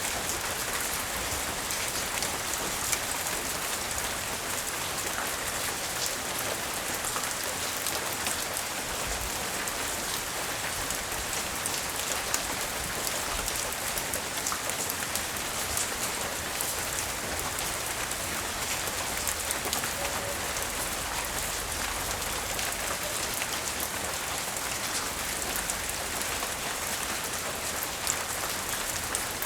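Steady rain falling and pattering on surfaces, a continuous hiss of many drops.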